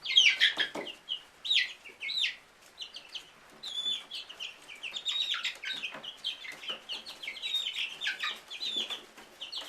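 A flock of five-week-old chicks calls continuously in many short, high peeps and trills, some rising and some falling. Occasional sharp taps come from the birds pecking at a corn cob.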